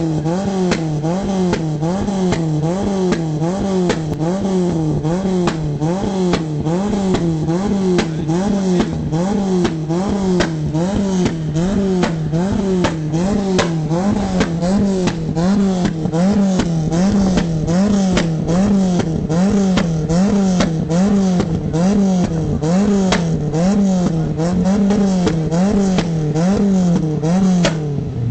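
A car engine revved over and over in a steady rhythm, its pitch rising and falling about twice a second, with many sharp clicks and crackles throughout.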